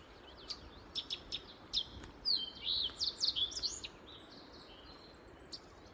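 A bird singing close overhead: a quick run of sharp high chirps and sweeping whistled notes, busiest in the first four seconds, then a few single chirps.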